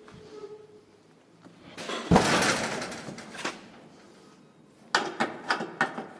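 A heavy thump about two seconds in that dies away over a second or so, then a quick run of sharp clicks and knocks near the end.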